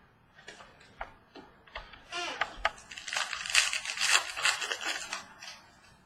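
Trading cards and their packaging being handled: scattered clicks, then a dense stretch of crinkling and snapping in the middle that dies away near the end.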